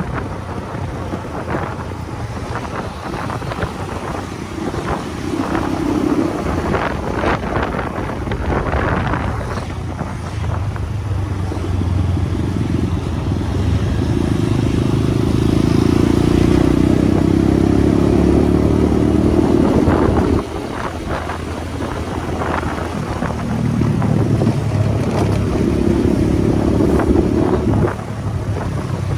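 Motorcycle engine running under way, with wind rushing over the microphone. The engine grows louder from about twelve seconds in, drops off suddenly about twenty seconds in, builds again and drops once more near the end.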